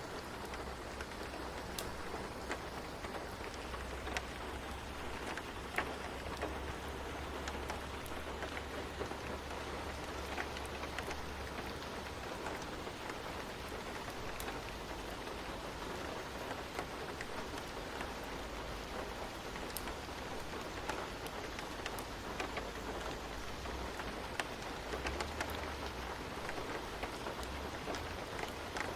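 Steady rain falling, with scattered drops pattering on a surface, over a low steady rumble.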